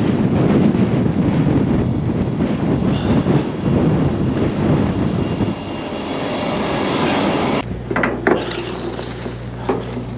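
Loud rough rumbling noise, then about three-quarters of the way in it changes abruptly to a steady low hum of an engine idling, with a few sharp clicks.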